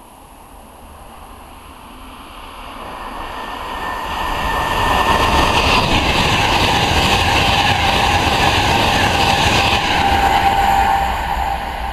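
Virgin express passenger train passing through a station at speed. Its rushing rail and wheel noise with a steady whine rises over about five seconds, stays loud, then begins to fade near the end.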